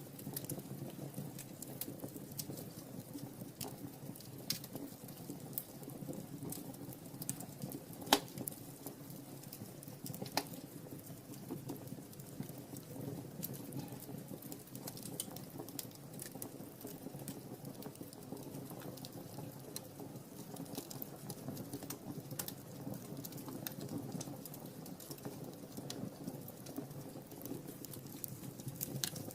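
Wood fire crackling in a fireplace: a steady stream of small snaps and ticks over a low flame rumble, with a sharper pop about eight seconds in and a smaller one about ten seconds in.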